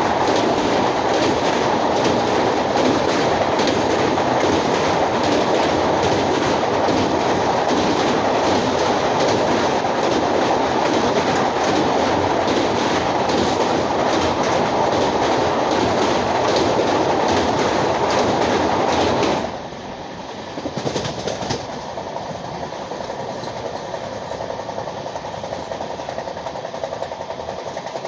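Passenger train with LHB coaches running at speed, a loud, steady rumble and rattle of wheels on rail. About 19 seconds in the sound drops suddenly to a quieter running noise.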